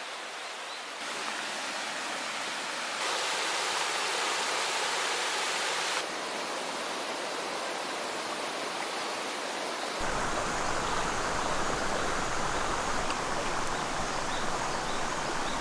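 Shallow river flowing and rushing steadily over its bed, its loudness changing abruptly in steps every few seconds.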